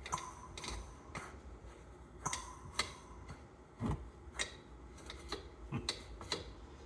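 Irregular light clicks and taps of hand tools and small engine parts being handled during engine disassembly, with a few duller knocks among them.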